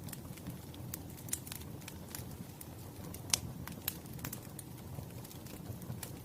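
Wood fire crackling: irregular sharp pops and snaps over a steady low rumble, with one louder pop about three seconds in.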